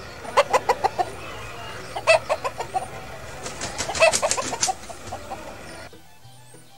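Chickens clucking in three quick runs of short, sharp calls.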